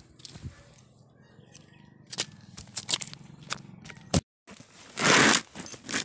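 Scattered metallic clicks, knocks and scraping of hand repair work on a motorcycle whose chain came loose after a screw fell out, with a louder rustling burst about five seconds in.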